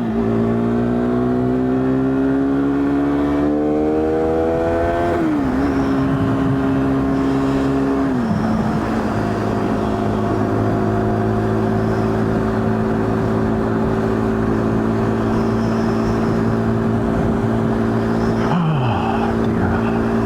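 KTM 390 Duke's single-cylinder engine accelerating through the gears: the revs climb for about five seconds, drop at an upshift, climb briefly and drop at another upshift about three seconds later, then hold steady at cruise. Wind rushes over the microphone throughout.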